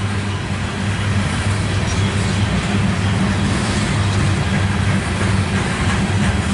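Loaded CSX coal train passing close by: a steady, loud rumble of the train on the rails with a low hum underneath.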